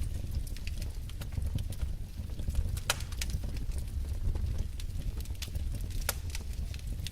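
Wood fire burning in a fireplace: a steady low rumble with irregular sharp crackles and pops from the logs, two louder pops about three and six seconds in.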